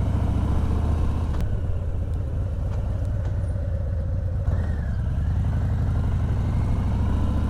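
Harley-Davidson Heritage's V-twin engine running steadily while riding.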